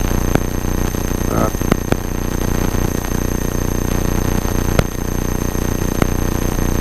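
Cessna 172's engine idling steadily on the ground, overlaid with electrical interference: a steady high whine and scattered sharp clicks.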